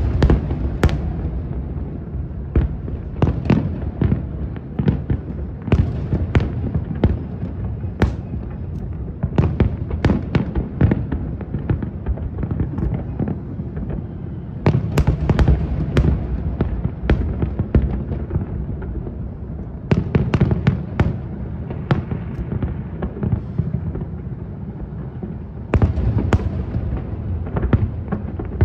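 Aerial fireworks exploding: many sharp bangs at an irregular pace, often several in quick succession, over a continuous low rumble of booms.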